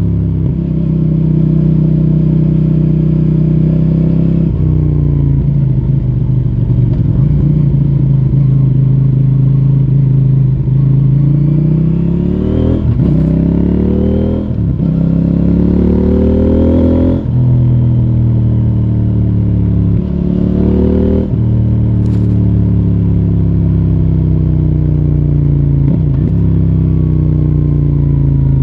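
CFMoto 800NK Advanced's 799 cc parallel-twin engine through its stock exhaust under riding: steady at first, then pitch climbing in several successive pulls with short breaks between them as the bike accelerates up through the gears around the middle, then settling and slowly falling while cruising.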